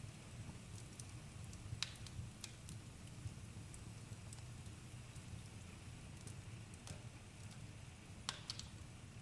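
Wood campfire burning with a low steady rumble and scattered crackles and pops, the sharpest about two seconds in and again near the end.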